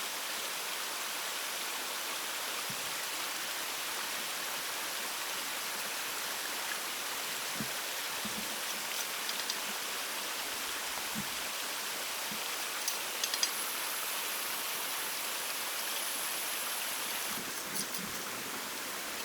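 Steady rushing of running water, like a forest stream, with a few soft knocks and clicks. A thin, high-pitched buzz comes in about two-thirds of the way through and stops a few seconds later.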